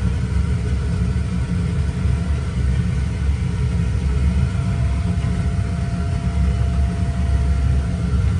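Steady low mechanical rumble with a faint constant hum over it, unchanging throughout, as from a motor or fan running.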